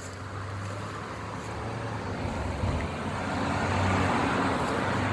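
A motor vehicle's engine running with a steady low hum, while road and traffic noise grows louder toward about four seconds in, then eases slightly.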